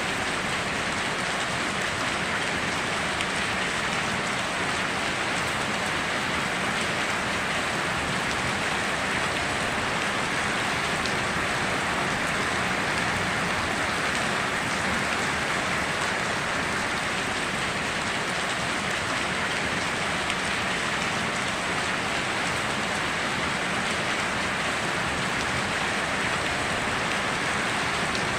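Steady heavy rain falling and pattering on surfaces, an even hiss with no breaks or thunder.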